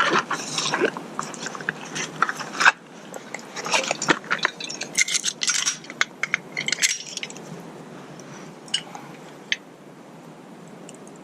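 A spork and food being handled on a wooden plate: irregular clicks, clinks and scrapes, busy for about the first seven seconds, then only a few scattered clicks.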